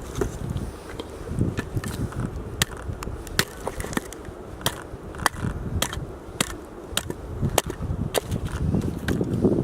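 Firewood being chopped and split with an axe: a string of sharp, irregular knocks and cracks of the blade on wood, roughly one every half second to second.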